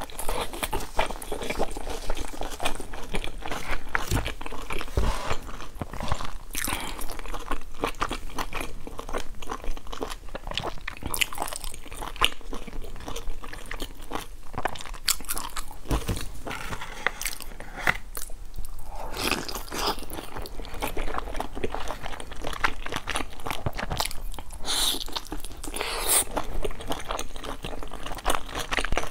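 A person chewing and biting pan-fried buns, close-miked: a steady run of crunchy bites and small mouth clicks.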